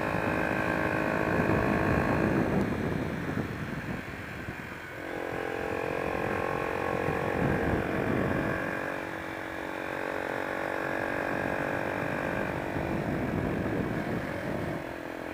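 Honda XR125's single-cylinder four-stroke engine running on the move, a steady engine note with wind rush on the microphone. The note eases off about four seconds in and picks up again about a second later.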